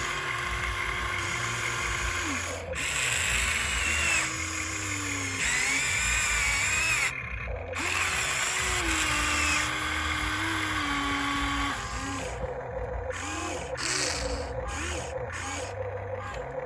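Small electric motors of Huina radio-controlled toy construction machines whining as they are driven in short runs, the pitch rising and falling with each move, with quick short bursts near the end.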